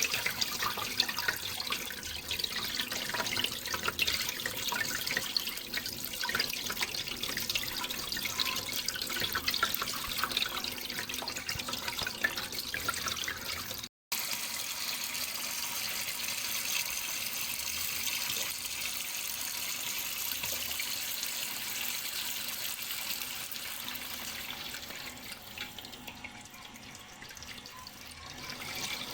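Flowing water splashing and trickling steadily, with many small splashes. About halfway through it cuts out for an instant and comes back as a smoother, more even rush, which turns softer near the end.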